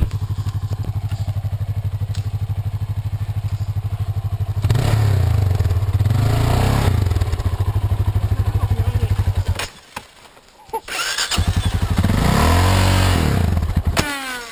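Off-road vehicle engine idling with a steady pulse, getting louder about a third of the way in, then dying away for about a second. It picks up again, revs up and down once, and cuts off near the end with a falling whine as it winds down.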